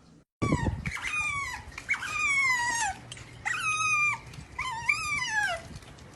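A dog whining in about five drawn-out, high calls, each falling in pitch, the last one wavering up and down before it drops away.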